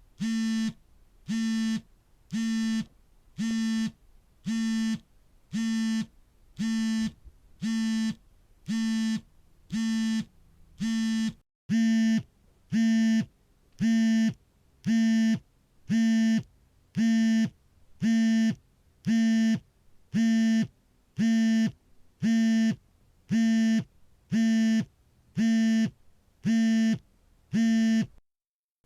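Smartphone vibrating for an incoming call: a pitched buzz in pulses about once a second, each lasting about half a second. After a brief break about eleven seconds in, the pulses are louder.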